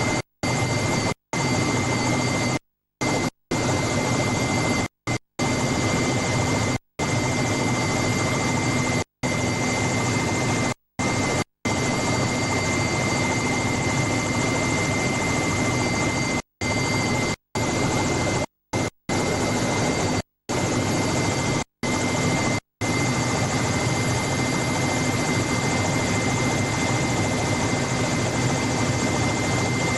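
Helicopter engine and rotor noise heard from on board: a steady, loud rushing din with a few steady tones running through it. The sound cuts out to silence for split-second gaps many times in the first twenty-odd seconds, then runs unbroken.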